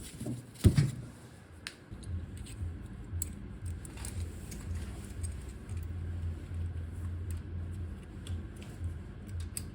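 Small metal parts clinking and clicking during hand assembly of a car's drum-type parking brake, with a knock about a second in. A low hum swells and fades unevenly underneath from about two seconds in.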